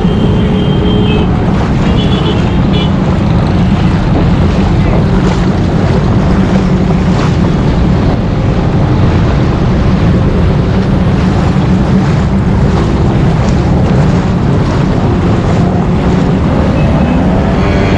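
Vehicles driving through deep floodwater on a street, a steady rush of churning water and engines, with wind buffeting the microphone.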